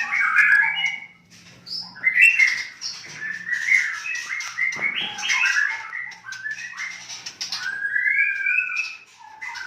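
White-rumped shamas calling: a busy run of short chirps and gliding whistles, with a brief pause about a second and a half in.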